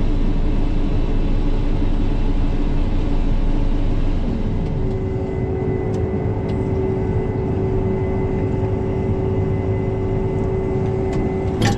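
Vehicle engine running steadily, with a steady tone joining about four and a half seconds in and a short click near the end.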